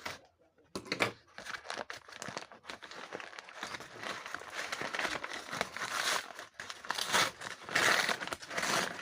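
Packaging crinkling and rustling as it is handled and unwrapped. The crinkling comes in dense, irregular crackles, starting about half a second in.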